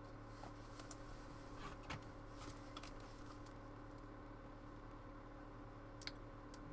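Faint scattered clicks and rustles of trading cards and their plastic sleeves being handled, over a steady low electrical hum.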